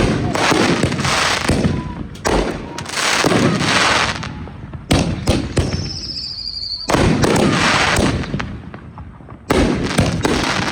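Consumer fireworks going off in quick succession: repeated sharp bangs and crackling bursts, with a brief high whistle about halfway through.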